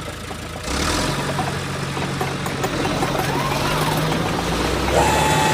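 Engine-like running sound with a steady low hum, coming in about a second in; a steady higher tone joins near the end.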